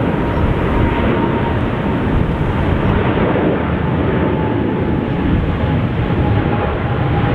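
Jet airliner engines running at takeoff power: a loud, steady rushing noise with a faint high whine that dips slightly in pitch about six seconds in.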